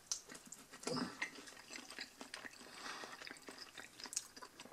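Someone biting into and chewing a breaded fried chicken wing: faint crackling of the crispy coating and wet chewing, louder about a second in.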